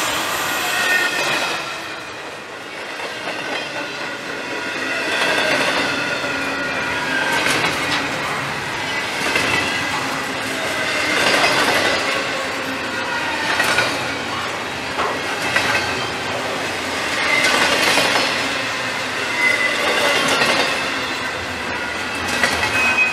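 Double-stack container freight train rolling past: steel wheels clacking on the rails with a thin high wheel squeal, swelling and clicking every couple of seconds as each car's wheel sets go by.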